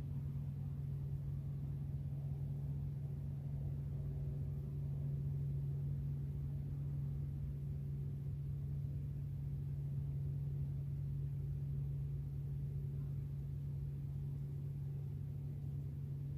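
A steady low drone at one constant pitch, with fainter higher overtones, holding level throughout.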